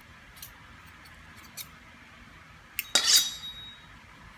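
Cutlery clinking on a plate during a meal: a few faint taps, then a louder ringing clink about three seconds in.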